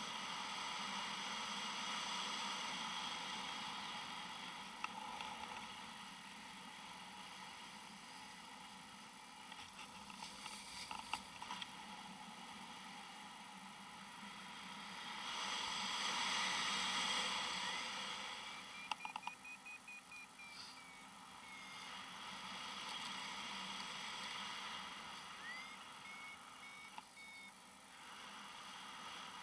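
Strong wind rushing past, swelling in gusts and easing off again, with a few sharp clicks and two faint runs of short high beeps.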